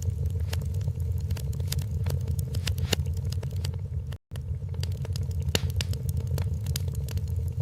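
Wood fire crackling in a fireplace: a steady low rumble with frequent sharp pops and snaps of varying loudness. The sound cuts out completely for a split second a little past halfway, then resumes.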